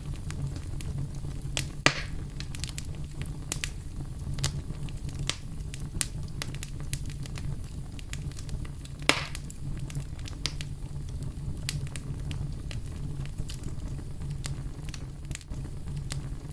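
Campfire of burning wood crackling and popping, with many small snaps over a steady low rumble of the flames. Two louder pops come about two seconds and nine seconds in.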